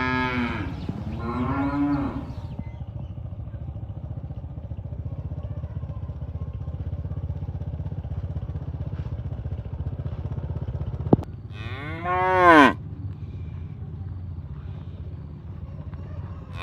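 Cattle mooing: two calls in the first two seconds, then a loud moo that rises and falls in pitch about twelve seconds in. A steady low rumble runs underneath, with a sharp click just before the loud moo.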